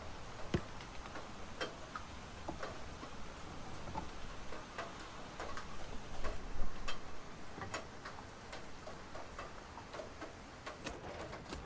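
Scattered light clicks and taps at uneven intervals, a little busier about halfway through, over a faint low rumble.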